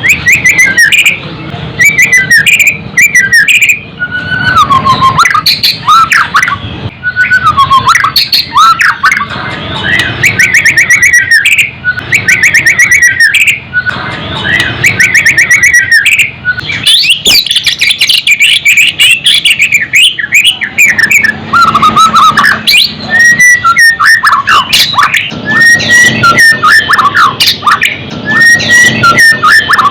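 White-rumped shama (murai batu) singing continuously and loudly: varied whistled phrases, many of them sliding up or down, mixed with fast rattling trills and harsh notes.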